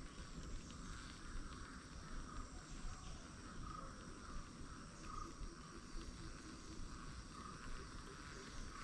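Outdoor ambience: a small animal gives short repeated chirps, roughly one a second and not evenly spaced, over a low steady rumble.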